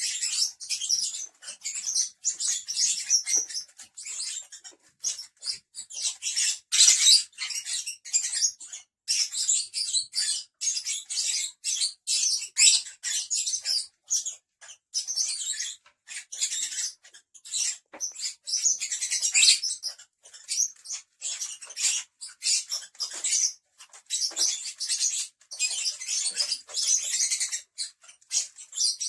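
A group of lovebirds chattering: a dense stream of rapid, high-pitched chirps and squeaks with only short breaks.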